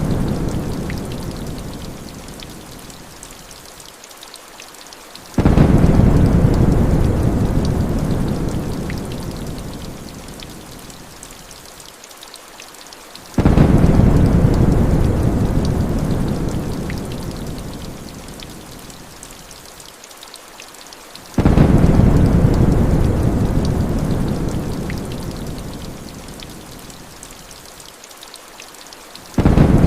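Heavy rain pouring steadily, with deep thunder rumbles. Each rumble breaks in suddenly and fades over several seconds, and they come back at an even spacing of about eight seconds, four times.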